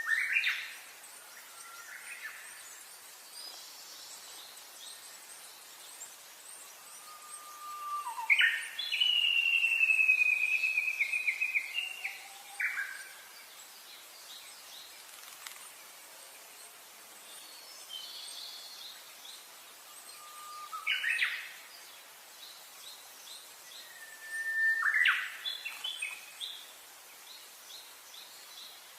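Birds singing: several separate phrases of whistles and trills a few seconds apart, the longest a buzzy trill lasting about three and a half seconds, over a faint steady background of high chirping.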